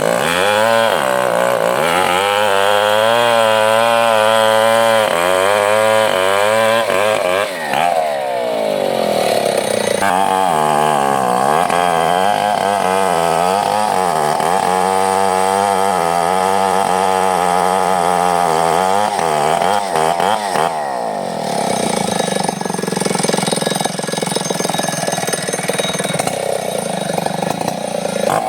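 Chainsaw running at high revs while cutting wood, its engine pitch wavering up and down as it works through the cut. About seven seconds in the revs drop briefly and climb again.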